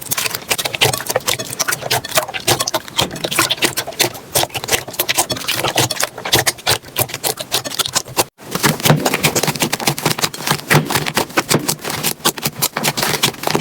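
Slime being squeezed and poked by hand, giving a dense, rapid run of sticky pops and crackles. A sudden break a little past eight seconds in cuts to another clip of the same kind.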